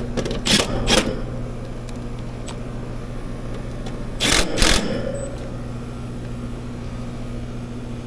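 Air conditioner outdoor condensing unit running with a steady low hum, just powered back on after its pulled disconnect was restored. Two pairs of short clattering noises come about half a second in and again about four seconds later.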